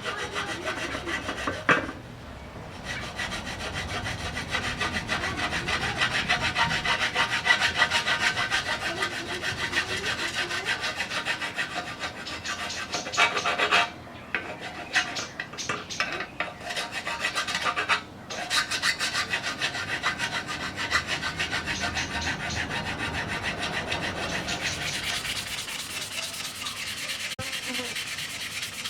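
Hand abrading of a surface: rapid, continuous back-and-forth rubbing strokes, with short breaks about fourteen and eighteen seconds in.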